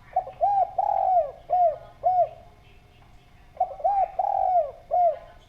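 Spotted dove cooing: two phrases, each a run of four or five rounded, arching coos with a longer drawn-out note among them, about a second and a half apart.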